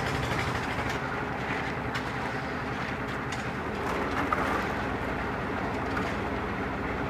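Heavy construction machinery running steadily with a low engine drone, with a few short knocks about two, three and four seconds in.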